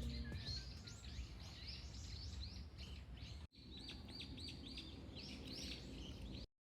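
Small birds chirping: a steady run of short, high, falling chirps, about three a second, faint over low background noise, broken by a momentary gap midway.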